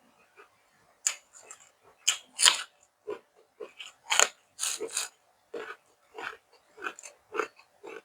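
A person chewing and crunching food close to the microphone: irregular wet bites and mouth smacks, several a second, loudest about two and a half seconds in and again around four to five seconds.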